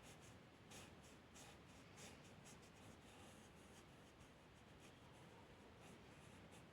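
Faint scratching of a drawing tool on paper: short, irregular strokes about every half second.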